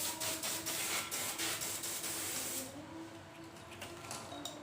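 Spray paint hissing in bursts, a long loud spray for the first two and a half seconds, then a few short, weaker ones.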